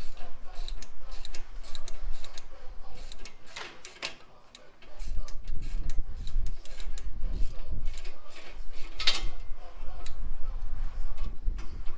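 Ratchet wrench clicking in irregular runs with clinks of hand tools, as bolts are worked loose on a V8 engine teardown. A low rumble joins in about five seconds in.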